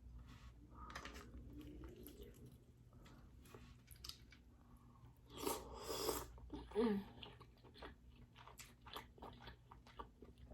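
Close-miked chewing and wet mouth sounds of a person eating king crab meat in garlic butter sauce: many small clicks, with a louder noisy bite about halfway through.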